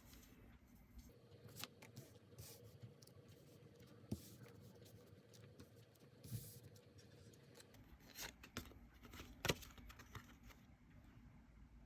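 Faint handling of tarot cards on a table: scattered light taps and slides, the sharpest tap about two-thirds of the way through.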